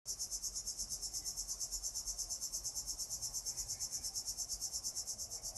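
Cricket chirping: a steady, rapid train of high-pitched pulses, about eight to ten a second, starting abruptly.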